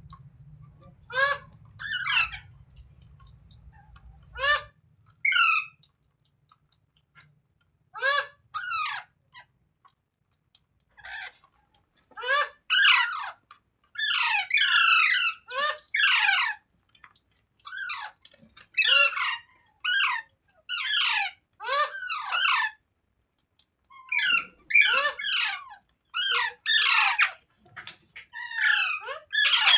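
Ringneck parakeet calling repeatedly in short, pitch-falling calls. The calls come singly at first and in quick runs from about halfway on.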